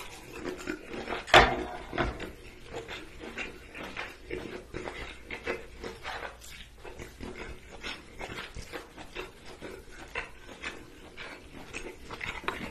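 Close-miked chewing and wet mouth sounds of someone eating sauce-dipped lobster meat: lip smacks and small sticky clicks throughout, with one sharp, loud smack about a second and a half in.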